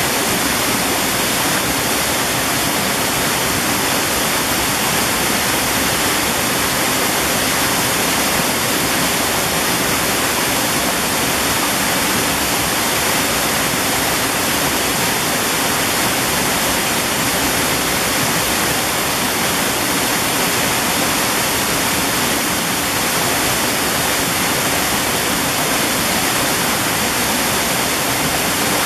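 Mountain valley stream: a steady, unbroken rush of flowing water.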